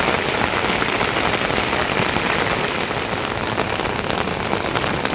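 Steady, fairly loud rain falling, with many individual drops ticking on a surface.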